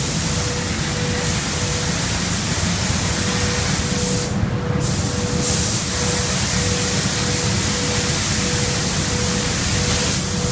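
Spray gun hissing steadily as it sprays paint. The spray cuts off briefly about four and a half seconds in and again near the end, over a steady low machine hum.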